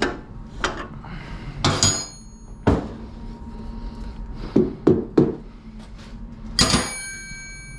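Metal hand tools clanking and clinking against steel, about eight sharp knocks spread irregularly, two of them leaving a high ringing tone, as wrenches are worked on a snow plow's bolts.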